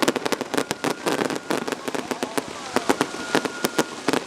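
Fireworks going off: a dense run of quick pops and crackles.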